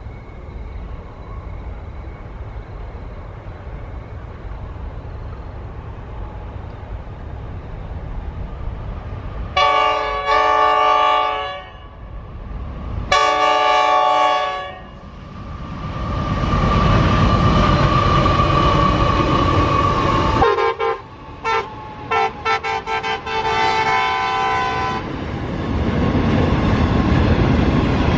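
Approaching diesel freight train: two long horn blasts about ten and thirteen seconds in, then the locomotives pass loudly with an engine whine. Near the end come a run of short, broken horn notes, and then the empty wagons rolling by.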